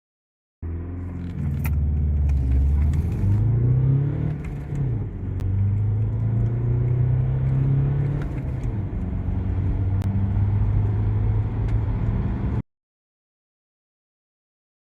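Audi A3 8P's engine accelerating hard in a 0–100 km/h run. The pitch climbs through the gears and drops at two upshifts, with light clicks and rattles, then cuts off suddenly.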